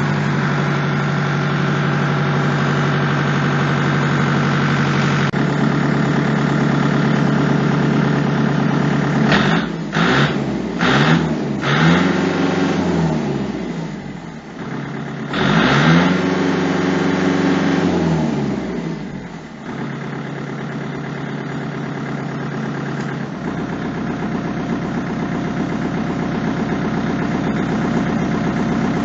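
Kubota tractor engine idling steadily. About ten seconds in it is blipped three times in quick succession, then given one longer rev that rises and falls back to idle.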